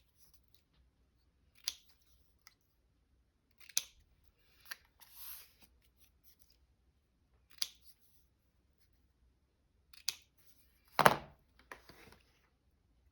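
Scissors snipping paper in single sharp cuts spaced a second or more apart, the loudest and longest near the end.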